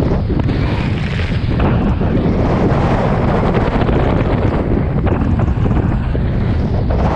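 Strong wind blowing across the microphone, a loud, steady low rumble of wind noise, aboard a Hobie 16 catamaran sailing in very strong wind.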